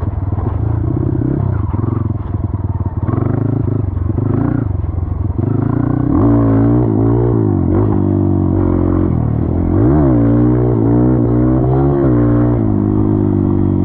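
Dirt bike engine running while riding. It is rough and uneven at first, then from about six seconds in it revs up and drops back several times, the pitch rising and falling with the throttle.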